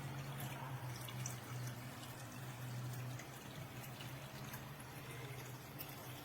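Water trickling and dripping over a steady low hum, which drops slightly about three seconds in.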